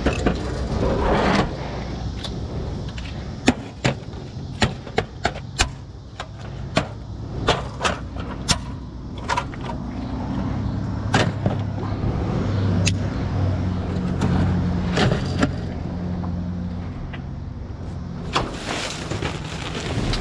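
A run of sharp knocks and clanks, about a dozen over several seconds, over a steady low engine hum.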